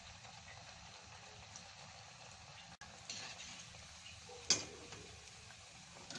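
Methi pakoras frying in hot oil, a faint steady sizzle. A metal utensil gives one sharp click against the pan about four and a half seconds in, with a smaller click a little earlier.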